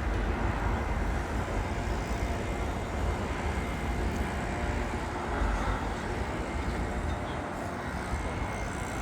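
Steady outdoor rumble of distant engine noise, with no single event standing out.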